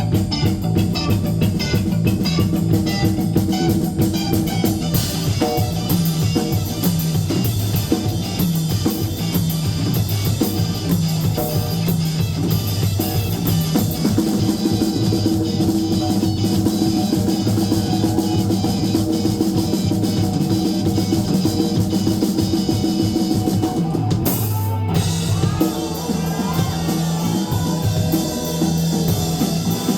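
Live rock band playing: drum kit, electric guitar and bass guitar going steadily together. About 24 seconds in the sound briefly thins out in a short break, then the full band comes back in.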